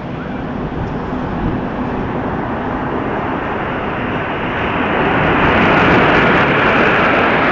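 Red Arrows' BAE Hawk jets approaching overhead: a broad rushing jet roar that grows steadily louder and brighter, then holds at its loudest for the last two seconds or so.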